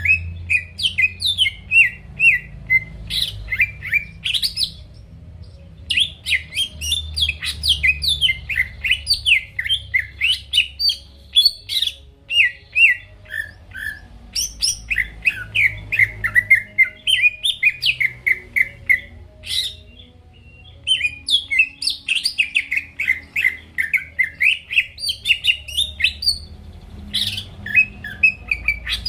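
Green leafbird (cucak ijo) in full song: a fast, continuous run of varied chirps and sliding whistled notes, with brief breaks.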